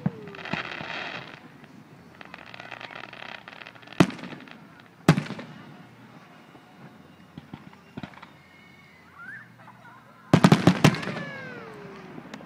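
Aerial fireworks shells bursting: single booms about four and five seconds in, with crackling sparks before them. Near the end comes a rapid cluster of five or six bangs in under a second.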